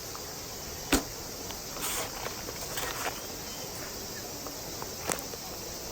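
Steady outdoor background with insects chirring, broken by a sharp knock about a second in, a rustle, and a few fainter clicks and knocks, one more just after five seconds.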